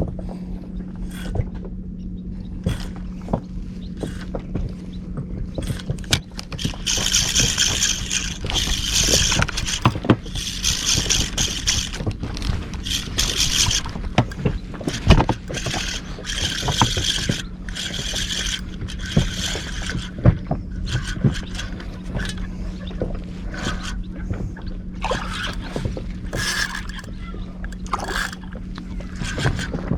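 Outboard motor of an inflatable boat running with a steady hum, with water splashing and knocking against the hull and a loud hiss of spray and wind coming and going from about a quarter of the way in.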